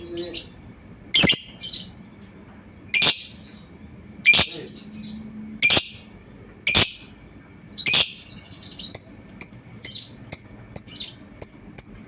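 Lovebird calling: loud, shrill squawks about every second or so, then, from about nine seconds in, a run of short, high chirps that quickens into the bird's rapid chattering call (ngekek).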